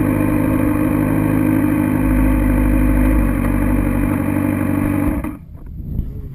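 Suzuki GSX-R750 inline-four engine idling steadily, then shut off about five seconds in; after the engine stops, only faint low rumbles and a couple of light knocks remain.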